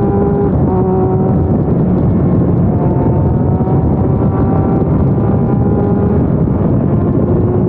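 Sport motorcycle engine running hard at speed, its note shifting in pitch a few times, under heavy wind rush on the microphone.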